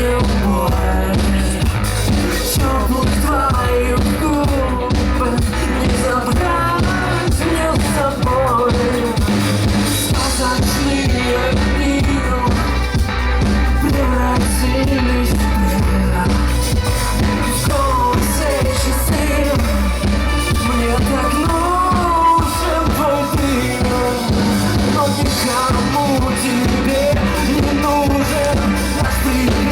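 Live pop-rock band playing a song, with a lead singer's voice over a steady beat.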